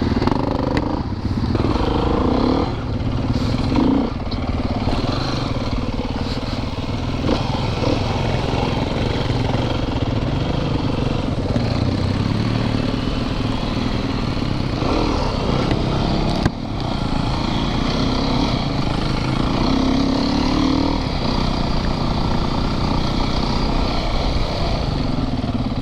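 Dirt bike engine running while riding along a trail, its note rising and falling with the throttle a few times.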